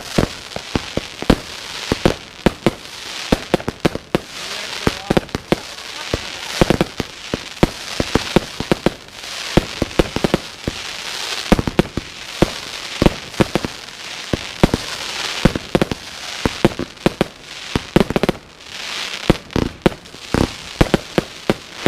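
Consumer firework cake batteries, two Heron 'Cake 13' and a Jorge 'Carnival', firing shot after shot. Rapid, irregular bangs of bursting shells run throughout, with crackling effects between them.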